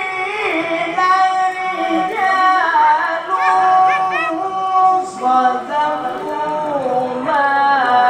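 A man reciting the Quran in the melodic tilawah style in a very high voice, holding long notes and bending them through wavering ornaments, with brief breaks between phrases.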